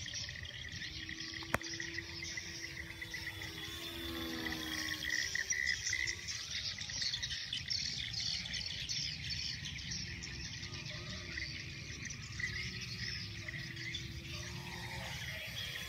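Insects chirring steadily, with the faint drone of an Extra 300S aerobatic plane's engine slowly rising and falling in pitch as it flies. There is a single sharp click about a second and a half in.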